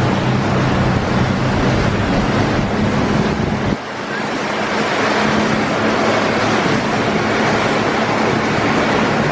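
Boat engine running over wind and water noise; about four seconds in the deep engine rumble drops away suddenly, leaving a steady hum under the rushing wind and water.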